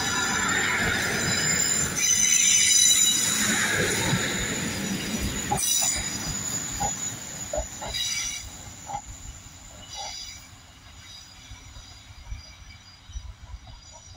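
Class 150 diesel multiple unit moving off, its wheels squealing in high-pitched tones that are loudest in the first few seconds, then the sound fading away with a few scattered clicks.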